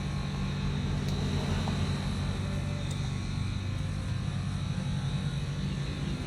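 Wheel loader's diesel engine running steadily with a low, even drone.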